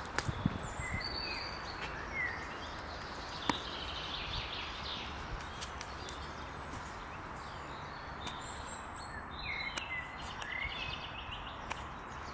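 Small songbirds chirping, with two short trilling phrases, over a steady hiss of outdoor ambience; scattered soft clicks, likely footsteps on the dirt path, run through it.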